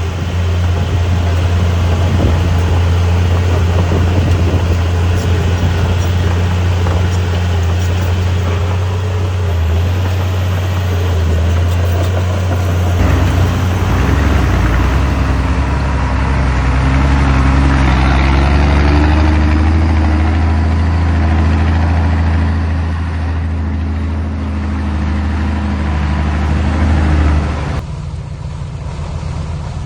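Heavy diesel engine of earth-moving equipment running under load. About 13 seconds in, its note changes and climbs as it works harder, then falls back sharply near the end.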